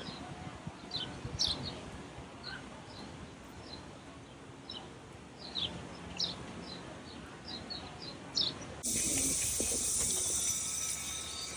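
Small birds chirping: scattered short, high chirps that drop in pitch, several every second, over faint outdoor background noise. Near the end the sound cuts abruptly to a louder, steady hiss.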